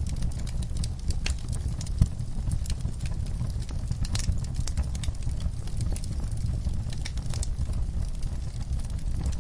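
Log fire in a fireplace crackling and popping, with a steady low rumble of flame under many small irregular cracks and one louder pop about two seconds in.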